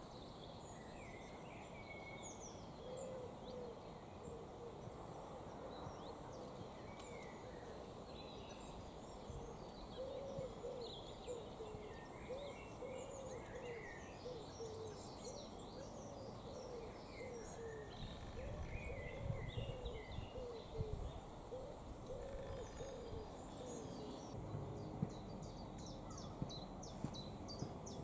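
Birdsong: a low cooing or hooting call repeated in short phrases of several notes, with smaller birds chirping higher up.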